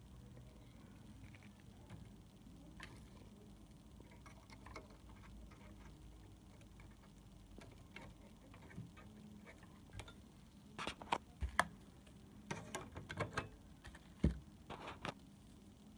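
Scattered light clicks and taps, sparse at first and then coming in quick clusters in the second half, over a faint steady hum.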